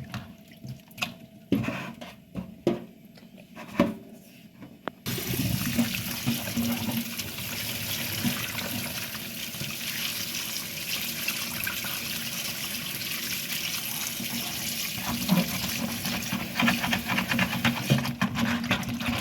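A few light knocks and clatters of handling, then about five seconds in a tap starts running hard into a basin, a steady splashing that continues. Mushrooms are being rinsed in fresh water to wash the soil out of them.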